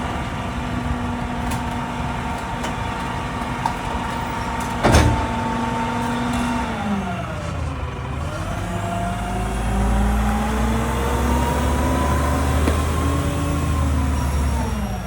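Mack LEU garbage truck's diesel engine running at a steady speed, then its pitch drops about seven seconds in and climbs again, with a heavier low rumble, before falling off near the end. A single loud bang comes about five seconds in.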